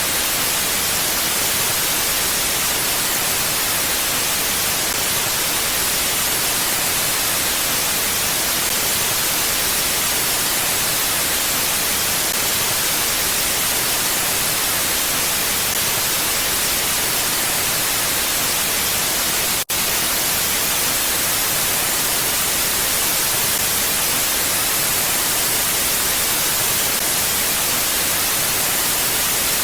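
Steady, even hiss of wind noise with no gusts, cutting out for an instant about two-thirds of the way through.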